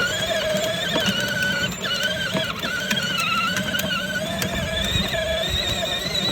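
Water truck running with a steady high-pitched mechanical whine that wavers slightly in pitch, over a low rumble.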